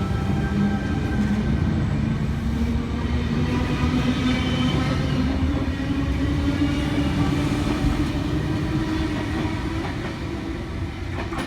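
Electric passenger train pulling away from the platform: rumble and wheel noise with a motor whine that slowly rises in pitch as it gathers speed, easing off near the end.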